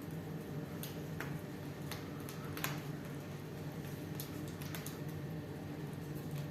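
Wood fire in a fireplace crackling, with irregular sharp pops over a steady low hum; the loudest pop comes about two and a half seconds in.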